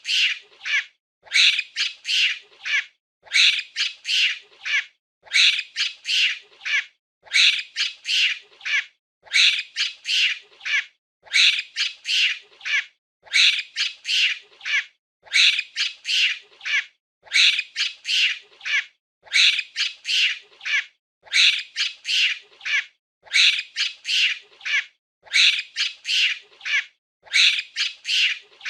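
A monkey's shrill calls, given in quick clusters of three or four and repeating in an even pattern about every two seconds.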